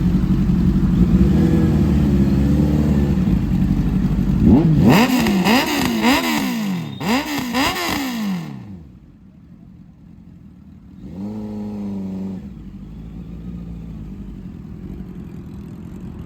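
Superbike engine running steadily, then revved in a series of quick throttle blips, the pitch rising and falling each time. A pause follows, then one more short rev, before it settles back to a quieter idle.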